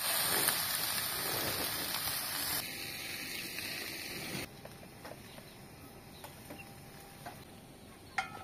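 Tomato slices sizzling in hot oil in a cast-iron frying pan, loud at first and dropping away after a few seconds to quieter outdoor background. A single sharp clink near the end.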